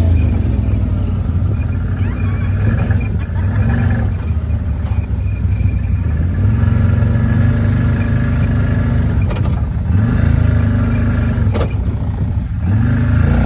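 Vehicle engine running hard, its pitch rising and falling again and again as it revs up and eases off.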